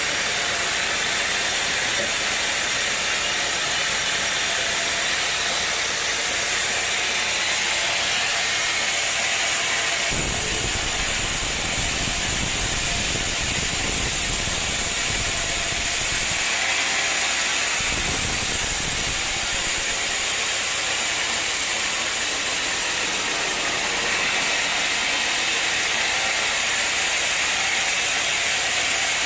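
Sawmill saw running and cutting wood: a steady, loud hissing machine noise. A deeper rumble comes in abruptly about a third of the way through and drops out again a few times, as the sound shifts from one stretch to the next.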